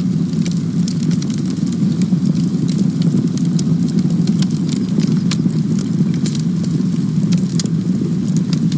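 Campfire burning: a steady low rumble of the flames with frequent small crackles and pops of the burning wood scattered irregularly throughout.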